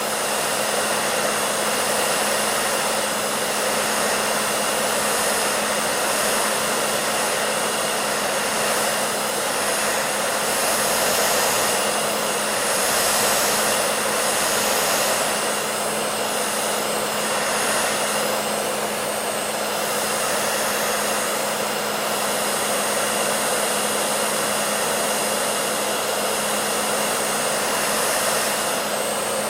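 Hair dryer running steadily: a constant rushing of air with a low hum from the motor underneath.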